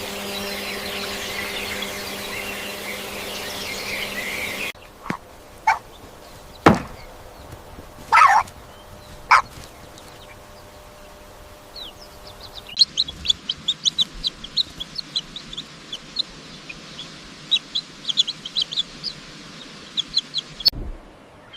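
Poultry calls. After a few seconds of steady buzzing hum, there are a handful of separate loud calls, one sliding down in pitch. Then about eight seconds of rapid, high, short chirps, like chicks peeping.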